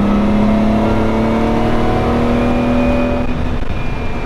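Lamborghini Miura's transverse V12 pulling hard in third gear, heard from inside the cabin: the engine note climbs steadily in pitch, then drops away about three seconds in as the throttle is lifted.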